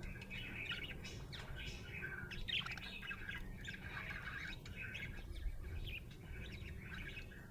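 Budgerigar chattering: continuous warbling twitter with quick chirps and short squawks, the contented sound of a happy budgie.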